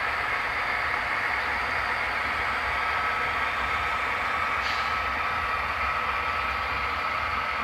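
HO scale model train running along the layout track: a steady mechanical hum with a constant thin whine.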